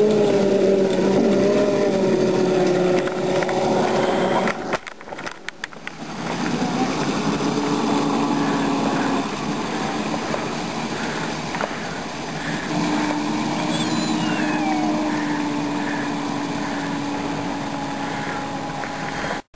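Ride-on backyard miniature railroad locomotive running along the track, with a steady mechanical drone that drifts slightly in pitch. The level drops briefly about five seconds in, and a faint regular ticking comes in from about halfway.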